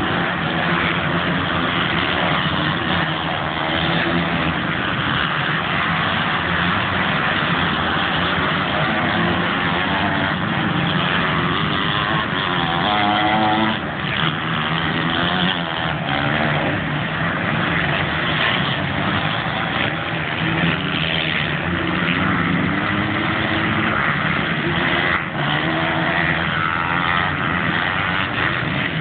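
Motocross bike engines racing on the track, revving up and dropping back as the riders shift and brake, with one bike's revs rising and falling clearly about halfway through.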